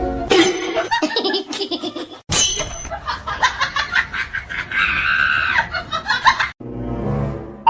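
People laughing out loud, the sound breaking off abruptly twice.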